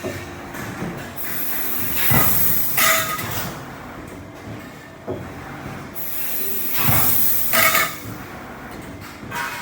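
CNC fiber-laser tube-cutting machine at work, its assist gas hissing in two bursts of about two seconds each, the first about two seconds in and the second about six seconds in, over steady machine noise.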